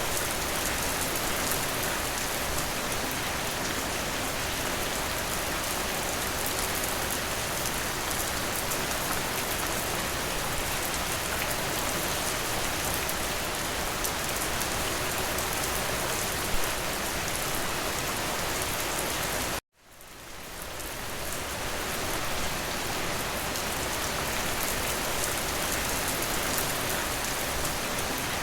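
Steady rain falling, an even wash of drops. About two-thirds of the way through it cuts out for an instant and fades back in over a couple of seconds.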